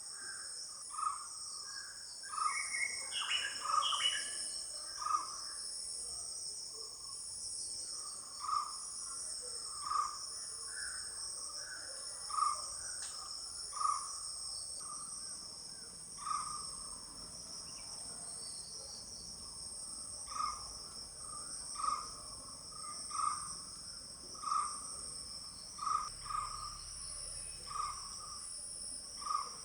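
Steady high-pitched chorus of crickets or similar insects, with a bird giving short calls every second or two, several close together a few seconds in.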